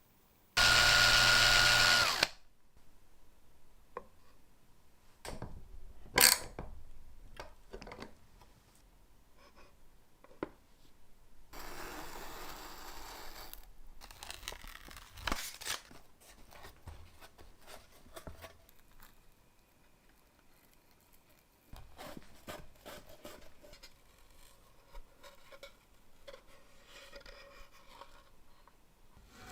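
A small power tool runs in one burst of under two seconds near the start, with a steady motor whine. It is followed by scattered clicks and knocks of parts being handled, one sharp loud click about six seconds in, and a stretch of scraping or rustling around the middle.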